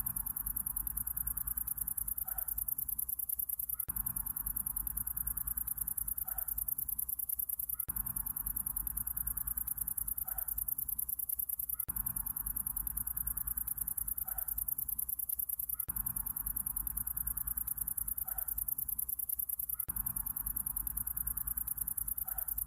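Looped summer-night ambience: a high, fast, continuous cricket-like trill over a low hum, with a short call coming back about every four seconds as the four-second loop repeats.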